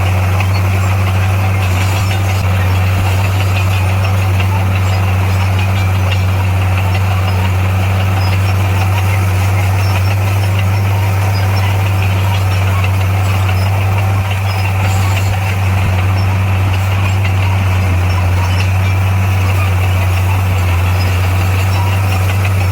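Heavy earthmoving machine's diesel engine running steadily at a constant speed: a deep, even drone that doesn't change.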